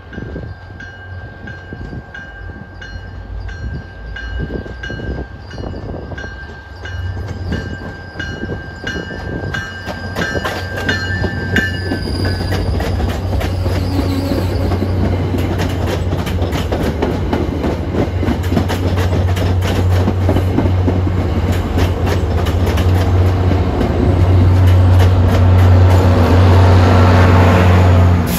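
Commuter rail train drawing into a station behind a diesel locomotive: a bell rings steadily for about the first twelve seconds, then the locomotive's engine hum and the wheels on the rails grow steadily louder, loudest near the end.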